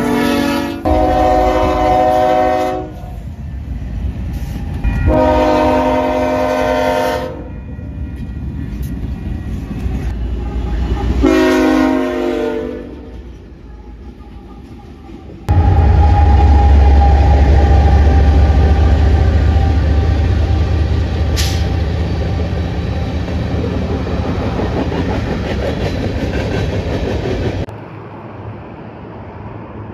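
A BNSF freight locomotive's multi-chime air horn sounds several blasts of one to two seconds as the train rolls by, over steady wheel and rail noise. About halfway through, heavy diesel locomotives pass close by with a loud, deep engine rumble, which gives way near the end to a quieter steady noise.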